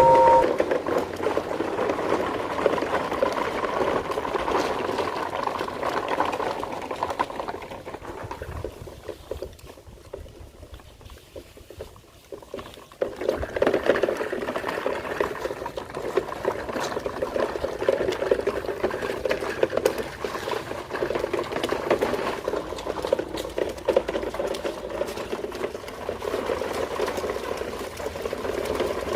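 Battery-powered toy train running, its small motor and wheels making a steady rattling whir. The sound fades for a few seconds about a third of the way in, then picks up again.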